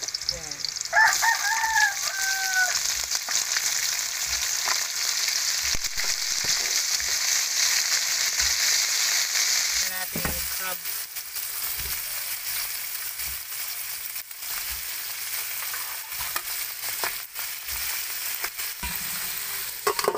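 Whole shrimp sizzling in hot oil in a wok with garlic and onion, loud at first and easing about halfway through, with a few short knocks. A rooster crows once about a second in.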